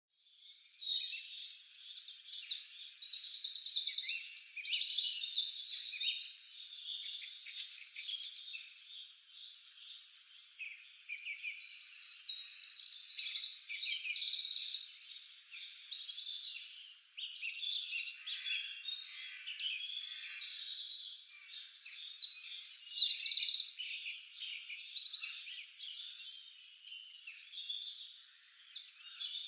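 A chorus of many songbirds singing at once: overlapping high chirps and rapid trills, swelling and easing in loudness without a break.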